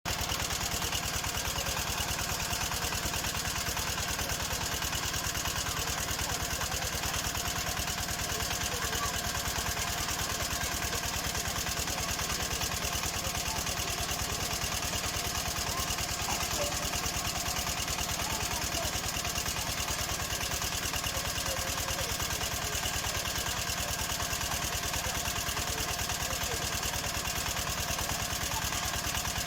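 Engine of a small water well drilling rig running steadily at an even speed.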